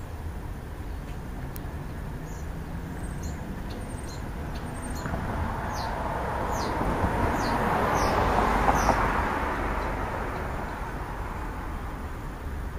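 A vehicle passing by, its road noise swelling to a peak about eight seconds in and then fading. Over it, a bird gives a series of short, falling chirps.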